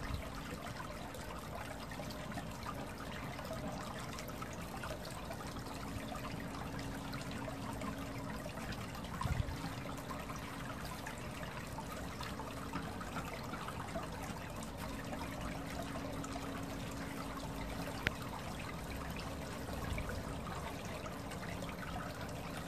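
Water trickling steadily, with a faint low steady hum under it; a dull thump about nine seconds in and a sharp click about eighteen seconds in.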